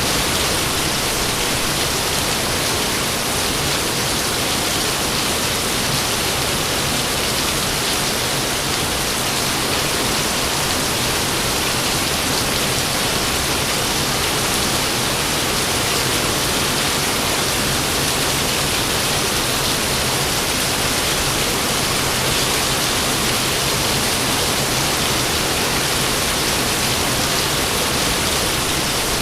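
Rain falling steadily, an even hiss with no thunderclaps.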